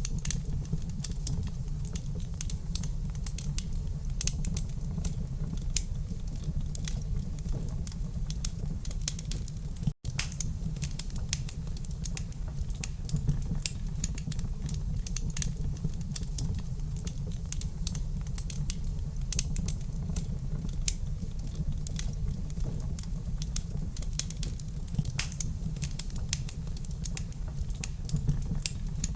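Wood fire crackling in a fireplace: many irregular sharp pops and snaps over a steady low rumble, with a momentary break in the sound about a third of the way in.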